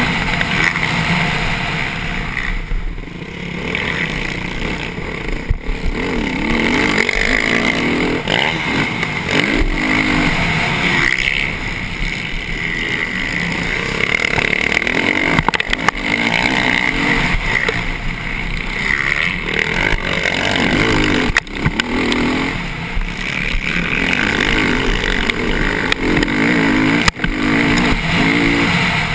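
Motocross bike engine at race pace, heard from on board, its pitch rising and falling over and over as the throttle is worked and gears are changed, under a constant rush of noise.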